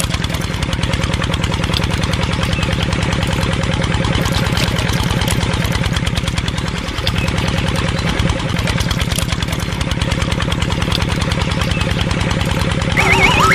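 Small single-cylinder diesel engine running steadily at idle, with a fast, even beat.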